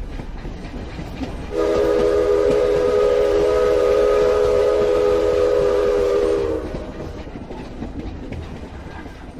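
A train rumbling along, with one long chord-like horn blast of about five seconds starting about a second and a half in, after which the rumble fades away.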